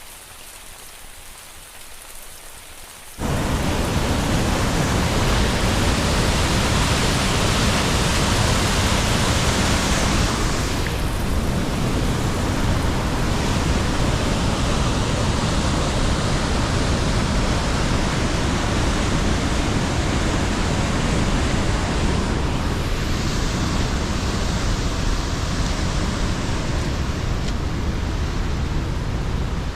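A fainter steady hiss for about three seconds, then a sudden cut to the loud, steady roar of Sol Duc Falls running at full strength with off-season rain, heard close up.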